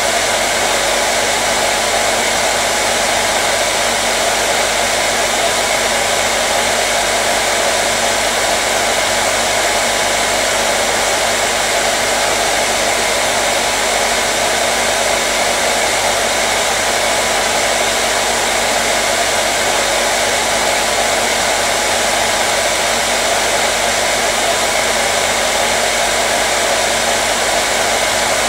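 Hair dryer running continuously at a steady setting: an even, unchanging whoosh of blown air with a faint motor hum underneath.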